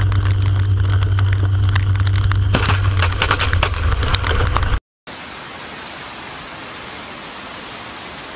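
Heavy rain, with drops clicking sharply against the phone's microphone over a loud, low steady drone. It cuts off about five seconds in and gives way to a quieter, even hiss of rain.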